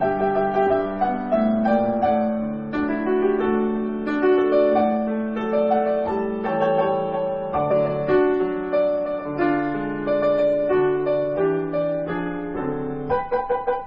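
Solo piano music: a moderate, flowing melody over sustained chords, with a quick run of repeated notes near the end.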